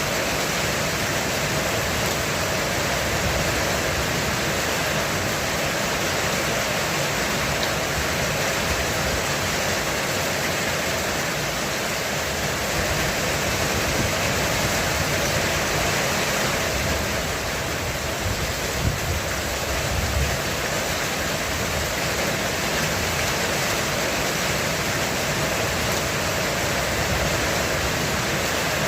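Heavy rain on a roof: a steady, dense hiss of drops. A little past halfway, a low rumble of thunder rolls in briefly under the rain.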